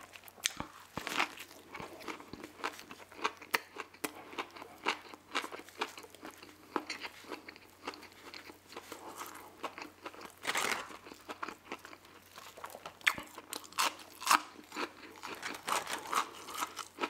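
Close-miked chewing of a crispy fried chicken sandwich, a Burger King Nashville hot chicken sandwich: an irregular run of crunches and short mouth clicks.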